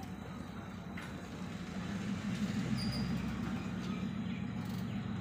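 Diesel passenger train at the platform, its engine running steadily with a low hum that swells slightly about two seconds in, with a couple of faint knocks.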